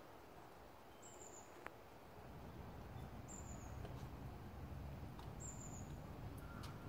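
A bird gives three short, high, thin notes, each falling slightly in pitch, about two seconds apart, over faint outdoor background with a low rumble that comes up about two seconds in.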